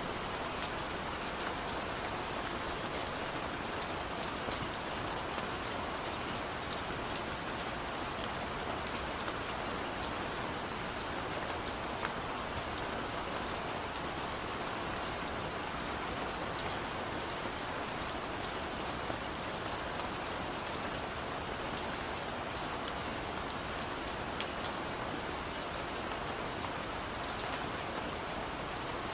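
Steady rain falling on a surface, an even hiss with many separate drop ticks scattered through it.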